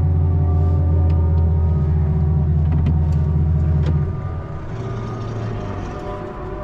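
Car engine heard from inside the cabin, running under load with a steady low drone that drops off sharply about four seconds in as the throttle is lifted. A few short clicks or rattles sound before the drop.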